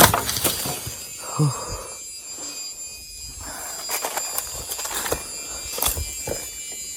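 Forest insects shrilling in several steady high tones, with scattered thuds and rustles of movement through the undergrowth; the loudest knock comes right at the start, and a short grunt about a second and a half in.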